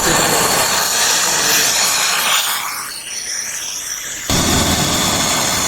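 Gas brazing torch flame hissing steadily while a refrigerant pipe joint is heated. Its low rumble drops away about two and a half seconds in and comes back suddenly a little after four seconds.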